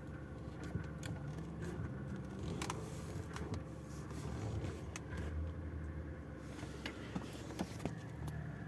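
FAW Besturn X80 engine idling with a thin whistling hiss from the power steering, which grows stronger near the end, with scattered light clicks. The whistle comes once the steering fluid is warm and changes as the wheel is turned; the owner suspects the power steering pump's bypass valve.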